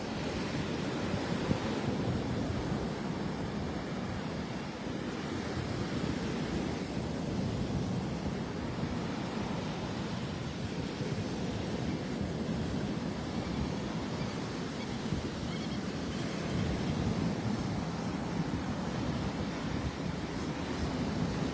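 Rough Gulf of Mexico surf: a steady wash of breaking waves that swells and eases slowly, with breeze buffeting the microphone.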